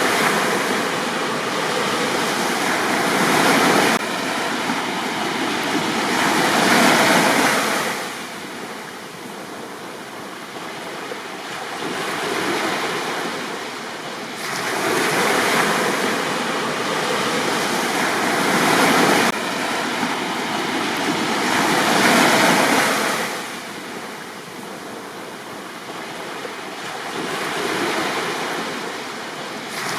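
Waves breaking and washing up on a beach, the surf swelling and falling back every few seconds.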